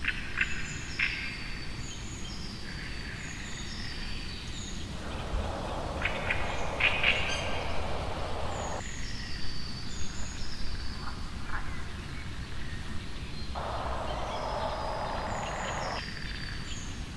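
Birdsong: a bird repeating a short, high, falling call every second or two, with a few other chirps. A rushing hiss swells in twice, about five seconds in and again near the end.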